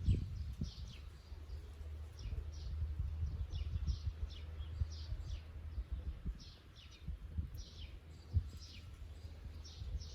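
Wild songbirds singing: a run of quick, falling chirps repeating every half second or so, over a steady low rumble.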